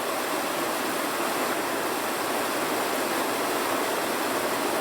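Steady rushing noise at an even level, with no distinct clicks or pops.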